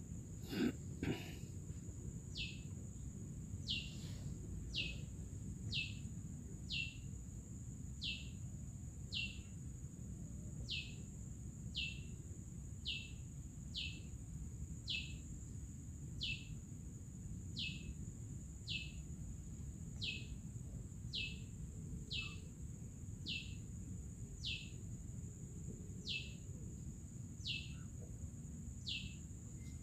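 A bird repeats a short falling call about once a second, evenly spaced, over a steady high-pitched drone.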